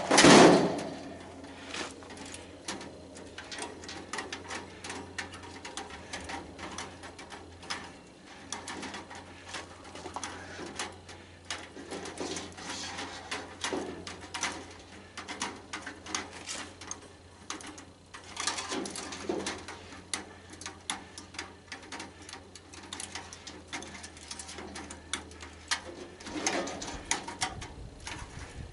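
Scattered small clicks and snips of hand tools cutting wires off tanning-bed ballasts, with cooing birds heard a few times over a faint steady hum.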